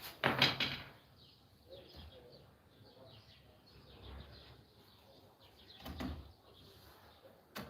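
Two brief knocks or bangs: a louder one about half a second in and a softer one near six seconds, with faint low-level noise between.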